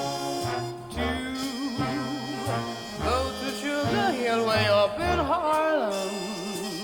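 Jazz recording played over ATC SCM20 bookshelf loudspeakers and picked up by a microphone in the room. A lead line with wide vibrato and sliding pitches runs over a bass that plays about one note a second.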